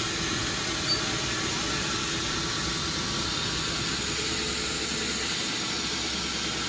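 Sawmill machinery running steadily with an even hum and hiss, and one short click about a second in.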